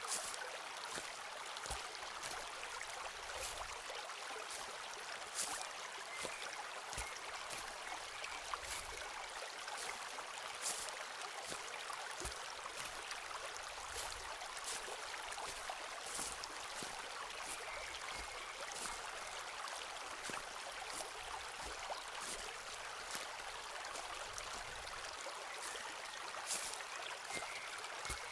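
Footsteps walking on a forest path, roughly one step a second, over the steady sound of a flowing stream.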